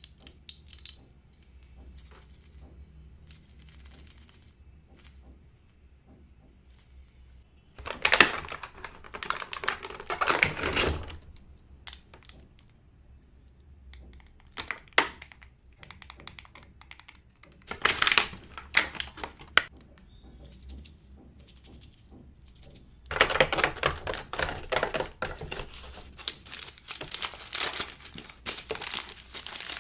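Light tapping and clicking on toy packaging, then three spells of crinkling and tearing as the packaging is unwrapped. The last spell is the longest.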